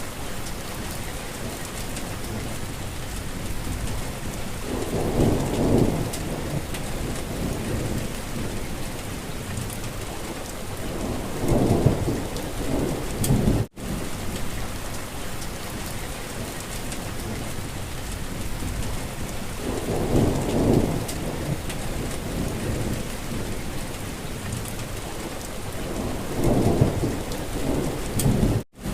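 Steady rain falling, with a low rumble swelling and fading four times. The sound cuts out for an instant twice, about halfway through and near the end.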